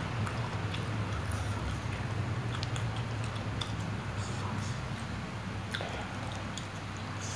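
A person chewing food close to the microphone, with small scattered clicks and taps as a plastic fork works at a meatball on a plastic tray, over a steady low hum.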